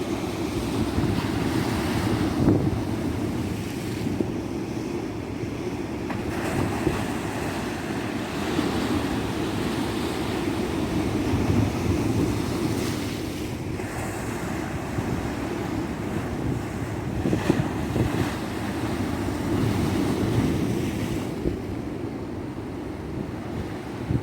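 Ocean surf washing on a tropical beach: a continuous low rushing of breaking waves, swelling louder every few seconds.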